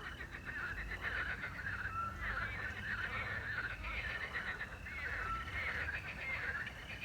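Night chorus of frogs croaking in fast rattling pulses over steadily chirping crickets. A short whistled owl note sounds twice.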